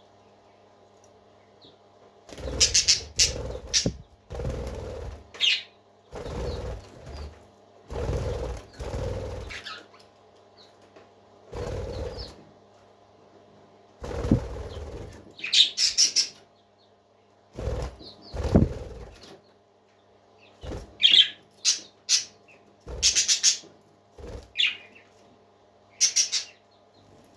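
Pet parakeets chirping in short bursts, every second or two, mixed with wing fluttering, over a faint steady hum.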